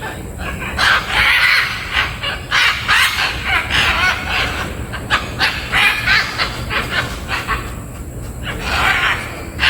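Birds giving harsh, honking squawks, many short calls in an irregular string, over a low steady rumble.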